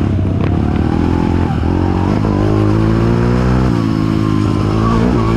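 Trail motorcycle engine running under way, its pitch rising and falling with the throttle over a steady low drone.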